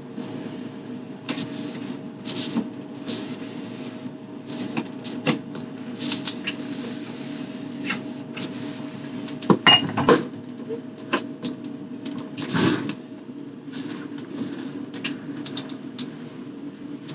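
Irregular knocks, clicks and brief rustling as things are handled and wiped while a refrigerator is cleaned out, with the loudest clatters about ten and twelve seconds in, over a steady low hum.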